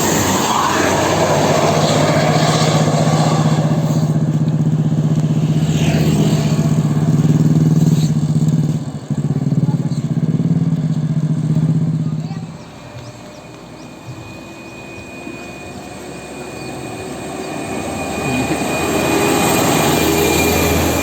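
A heavy diesel vehicle's engine runs loud and steady as it passes close by, then fades away suddenly about twelve seconds in. Another vehicle can be heard approaching, growing louder toward the end.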